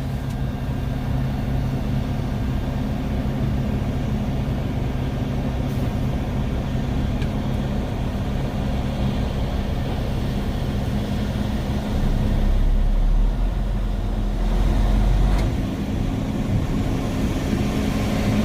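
Semi-truck tractor's diesel engine idling steadily, heard from inside the cab, with a deeper, louder rumble for about three seconds past the middle.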